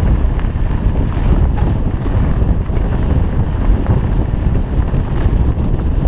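Wind buffeting the microphone of a mountain bike rider descending a trail: a loud, steady rumble with faint ticks scattered through it.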